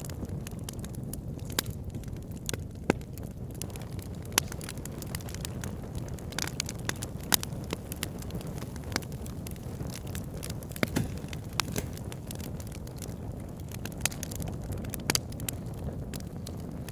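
Wood fire burning in a fireplace: a steady low rumble with irregular sharp crackles and pops scattered through it.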